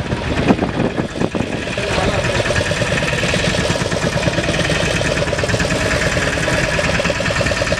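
A fishing boat's engine running steadily with an even pulsing beat, with a few sharp knocks in the first second or so.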